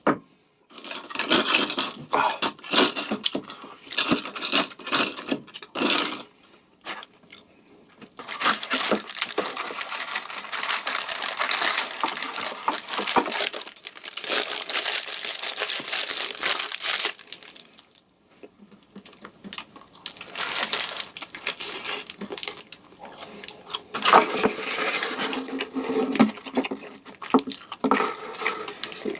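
Close-miked eating: a person biting into and chewing cream-filled donuts, moist crackly mouth sounds in long stretches with two short pauses, about seven and eighteen seconds in.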